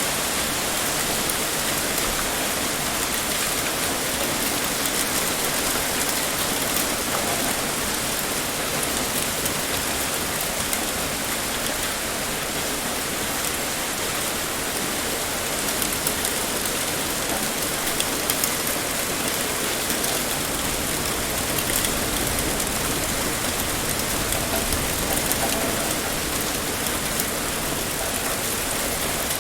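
Heavy rain pouring steadily onto a surface, with a few sharper drop ticks standing out now and then.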